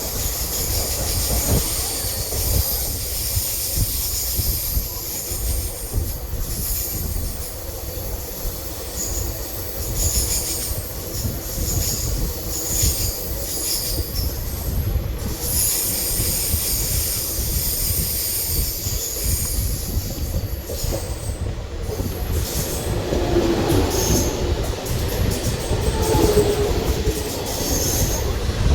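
Passenger train running on the rails: a steady low rumble with high-pitched wheel squeal.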